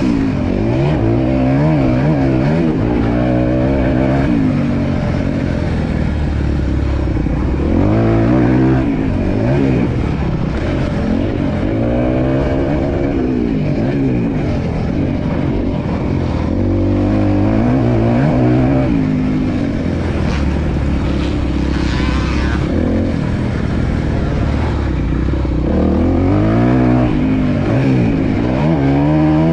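Four-stroke single-cylinder motocross bike engine being ridden hard, its revs climbing and dropping back again and again as the throttle is opened and shut.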